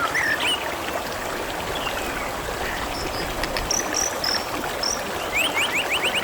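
Water trickling and flowing steadily over stones, with birds chirping. There are short whistled notes near the start and again about halfway through. Near the end a fast trill of quickly repeated notes begins, rising slowly in pitch.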